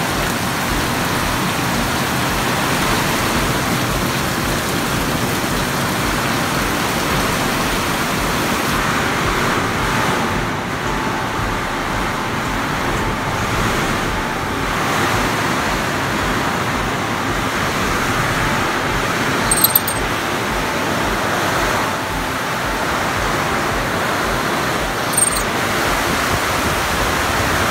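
Heavy downpour pouring steadily, a dense, even hiss of rain. Two short sharp clicks stand out, one about two-thirds of the way in and another near the end.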